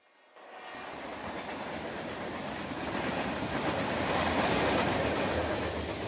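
Train running on the rails as a recorded intro sound effect. It fades in and grows steadily louder over the first few seconds.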